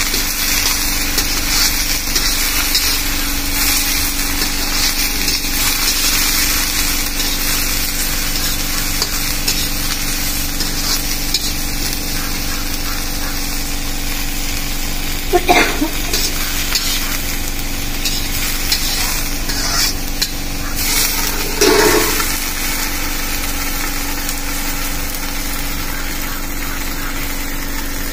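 Food frying and sizzling steadily in a metal kadhai over a wood fire while a slotted metal ladle stirs it. Two short louder sounds come about halfway and about three-quarters through.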